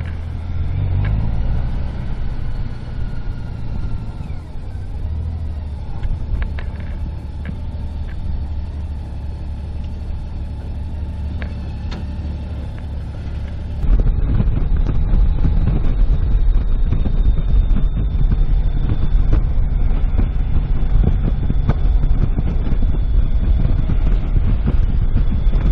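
Car engine and road noise while driving, with the engine pitch briefly rising about a second in. About halfway through, the sound jumps suddenly louder into a heavier, rougher rumble.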